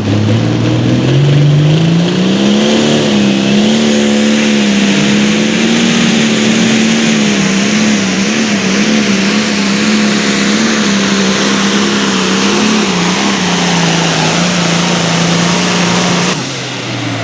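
A pulling vehicle's engine run at full throttle during a pull. The pitch climbs over the first two seconds, then holds high and steady with slight wavering, and drops away sharply near the end as the pull finishes.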